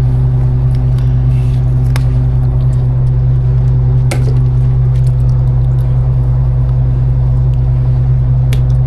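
Fishing boat's engine running steadily with a loud, even low hum, and a few sharp knocks about two seconds in, four seconds in and near the end.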